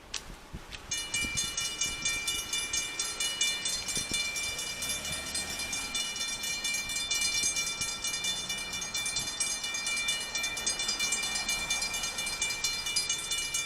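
Safetran mechanical bell at a railroad grade crossing ringing with rapid, even strokes. It starts about a second in and cuts off suddenly at the end, the warning as the crossing activates.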